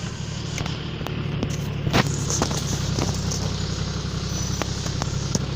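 A car's engine droning steadily while driving over a rough, muddy road, with scattered knocks and rattles from the bumps and one sharp knock about two seconds in.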